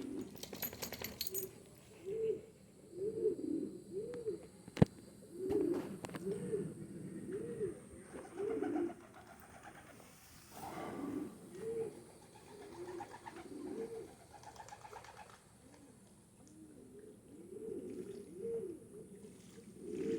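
Domestic pigeons cooing over and over in a loft, several birds overlapping in short rising-and-falling coos. A single sharp click about five seconds in, and a brief rustle a little past halfway.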